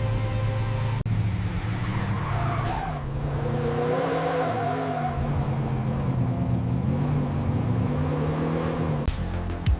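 A car's engine with tyres skidding and squealing.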